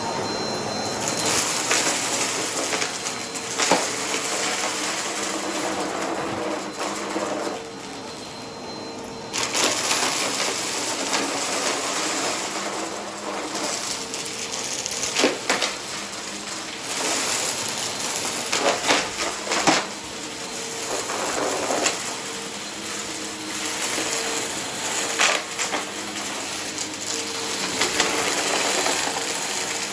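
Vacuum cleaner running with a steady motor hum while sucking up dry, crunchy debris, with crackling pickup and sharp clicks as bits are drawn in. The airy hiss drops away for a second or two about eight seconds in, then comes back.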